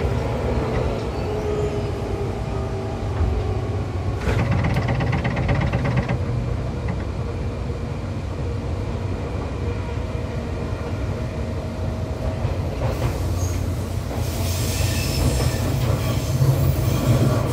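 Seibu 263F electric train heard from on board while running: a steady low rumble of motors and wheels with a faint steady whine. About four seconds in there is a short stretch of rail clatter, and from about 13 seconds a high-pitched wheel squeal and hiss comes in.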